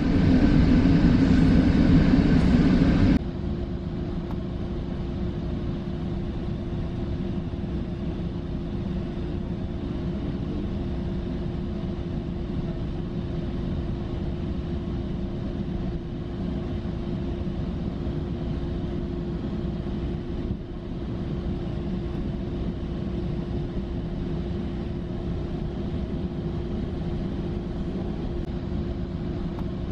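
Metrolink passenger train heard from inside the car: a steady rumble with a constant droning hum. The louder, fuller noise of the first three seconds drops off abruptly to a lower, even level.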